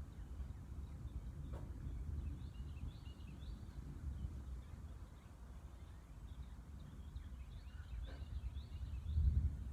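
Birds chirping in short, high, scattered notes over a steady low outdoor rumble that swells near the end.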